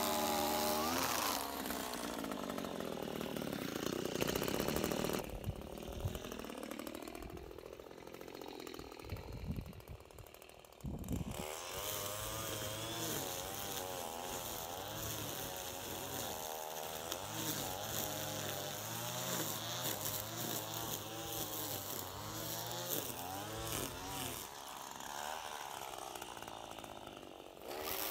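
Echo 210 string trimmer's small two-stroke engine running, its pitch rising and falling as the throttle is worked. Near the middle it eases back for several seconds, then opens up sharply again.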